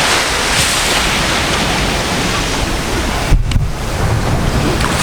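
Ocean surf washing steadily onto the beach, with wind buffeting the microphone; a strong gust hits the microphone a little past three seconds in.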